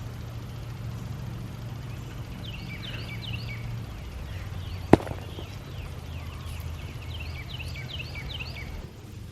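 A songbird singing outdoors in repeated short phrases of quick, high, downward-sliding notes, over a steady low rumble. One sharp knock about five seconds in.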